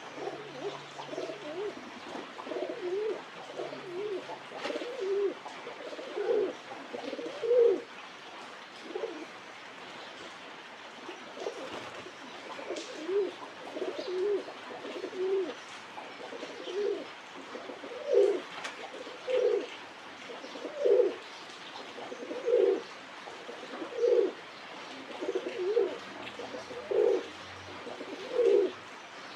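Pigeons cooing: short, low, throaty coos repeated every second or so, with a pause of a few seconds about a third of the way through.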